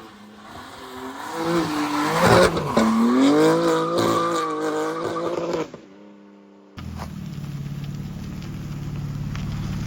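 BMW G82 M4 Competition's twin-turbo straight-six revving up and down under throttle, its pitch rising and falling. About seven seconds in it gives way to a steady low rumble, as at idle.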